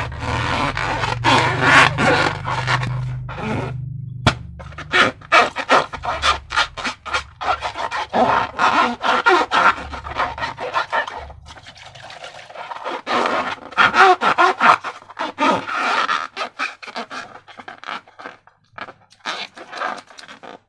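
Sticky slime squelching and crackling with many small wet clicks, in two long bursts with a lull between them, thinning to scattered clicks near the end.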